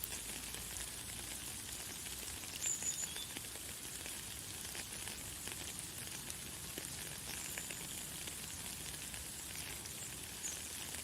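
Light, fine rain falling steadily, a soft hiss of tiny drops. A few short, high bird chirps come through it, the loudest about two and a half seconds in.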